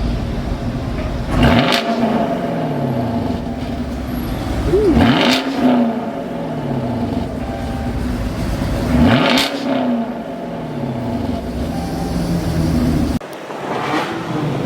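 A car engine is revved three times, a few seconds apart. Each rev rises sharply and then falls back toward idle. The sound drops off abruptly near the end.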